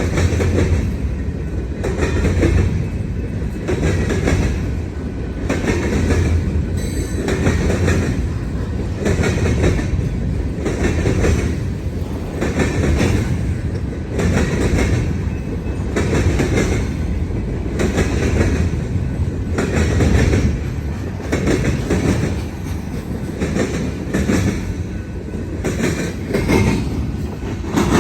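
Freight cars of a long Union Pacific manifest train rolling past, their wheels clattering over a railroad diamond crossing in a steady, repeating rhythm over a continuous rumble.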